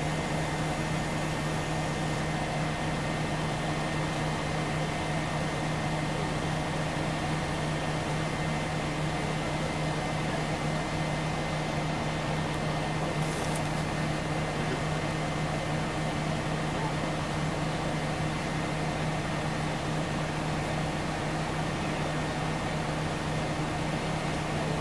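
Cabin noise inside a Scania OmniLink CL94UB city bus: a steady drone from the engine and running gear with an even low hum that holds constant.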